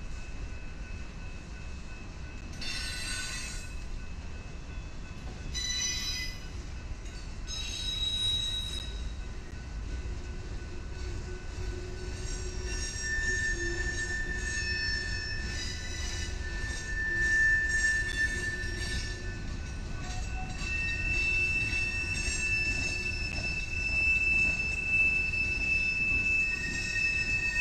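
Freight train rolling past, its steel wheels squealing in several high, drawn-out tones that come and go over a low, steady rumble.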